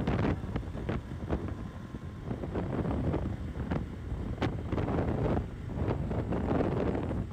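Wind buffeting the microphone on a moving motorcycle, in uneven gusts, with road and engine noise of the KTM Duke 200 underneath.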